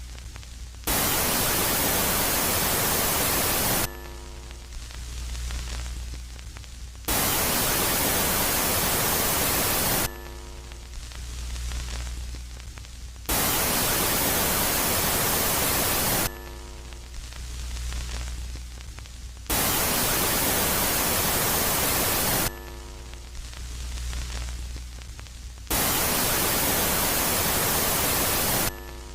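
Loud static-like hiss, about three seconds at a time, alternating with quieter stretches of low hum and faint steady tones, five loud phases in all. It is a space-sound track presented as Jupiter's moon Megaclite switching between a quiet and a loud phase.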